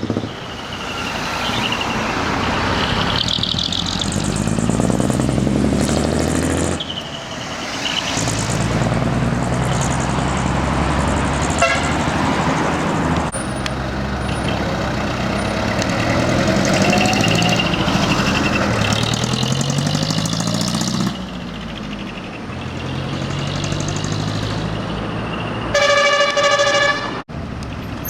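Big diesel trucks driving off one after another, their engines revving up and falling away as each passes. Near the end comes one truck-horn blast of about a second and a half, which cuts off suddenly.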